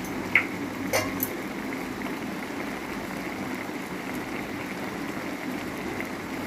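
Soya chunks frying in a pan with a little soy sauce: a steady sizzle and bubble. Two short clicks come about half a second and a second in.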